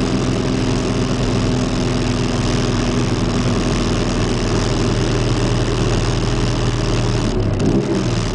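Pontiac Fiero's engine heard from inside the cabin, running steadily at low speed as the car cruises along, its note wavering briefly near the end.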